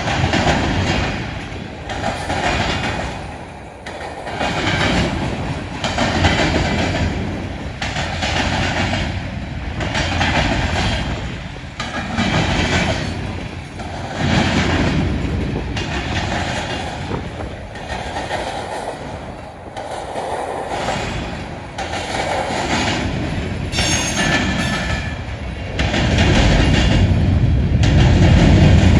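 Freight train of covered grain hopper cars rolling past, the wheels clicking over rail joints in a steady repeating rhythm of surges. Near the end it grows louder and deeper.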